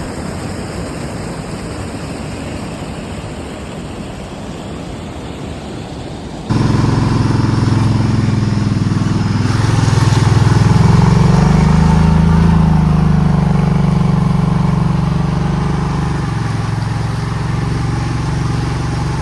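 A steady rushing noise, then from about six seconds in a small vehicle engine running, its pitch rising and falling a little.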